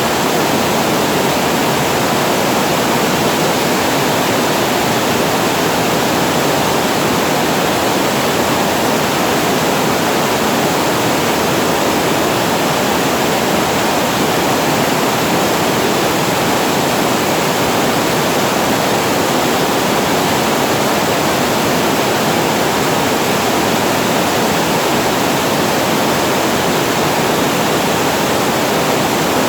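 Water spilling over a reservoir weir into the pool below, a loud, steady, unbroken rush.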